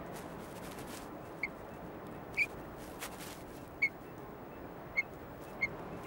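A bird giving short, high single peeps, five of them at uneven intervals, over a faint steady background hiss.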